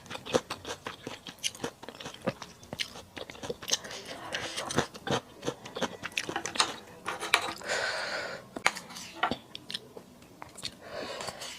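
Close-miked eating of mala duck: wet chewing and crunching with many sharp mouth clicks, and a longer rustling smear about eight seconds in.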